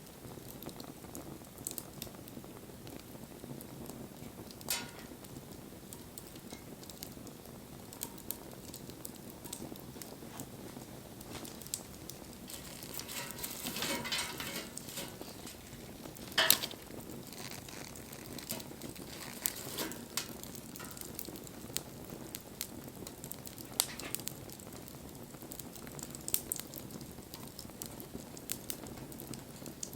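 Wood campfire crackling, with scattered sharp pops over a steady low rustle. About halfway through a stretch of hissing swells up, followed by one loud pop.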